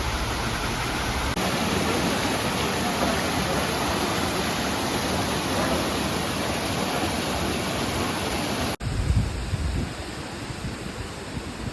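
Artesian spring water gushing out of the mountainside and spouts in a steady rush. About nine seconds in it cuts suddenly to a quieter rush with a few low thumps.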